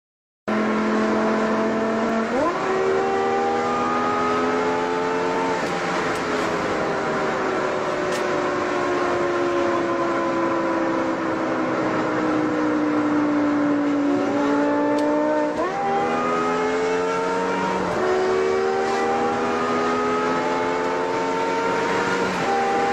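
BMW M5 E60's 5.0-litre V10 heard from inside the cabin under hard driving. The revs jump up at a downshift about two seconds in and climb, then drop and sink slowly. Two quick downshifts around fourteen and fifteen seconds in send them up again, and they climb with upshifts near eighteen seconds and at the very end.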